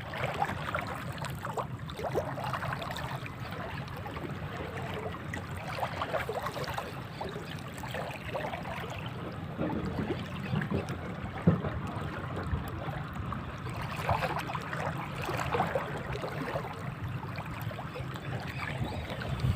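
Sea water lapping and splashing, with scattered small clicks and knocks.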